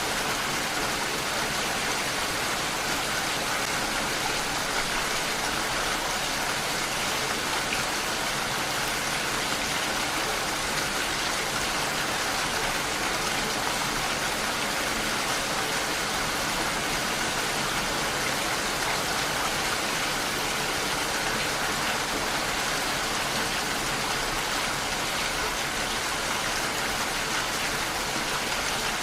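Steady, even rainfall, a continuous hiss of rain with no single drops or other events standing out.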